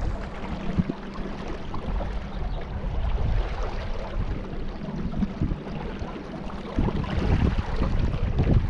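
An engine running steadily with a low hum, under rushing wind noise on the microphone, with gusty bumps about a second in and again near the end.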